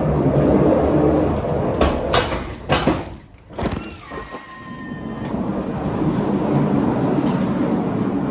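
Pallet jack moving a loaded pallet across a truck trailer floor: a steady rolling rumble broken by sharp metal clanks about two seconds in. A brief steady tone sounds about four seconds in, and the rumble starts again after it.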